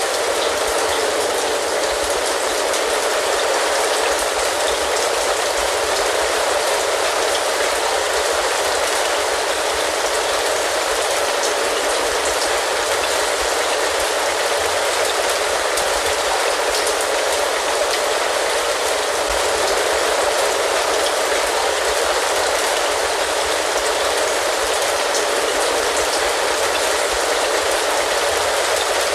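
Steady rain falling, even and unbroken, with many small drop hits heard through it.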